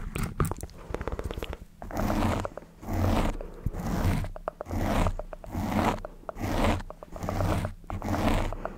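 Close-miked ASMR mouth sounds: a quick run of wet clicks and pops, then a steady rhythm of breathy swishing sounds about once a second.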